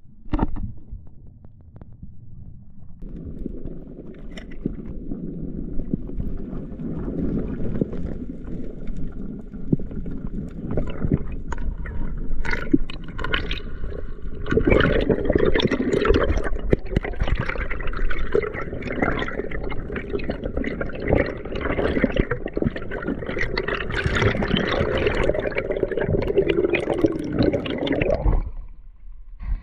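Water sloshing and gurgling close to the microphone, with many small knocks, getting louder about halfway through and cutting off abruptly near the end.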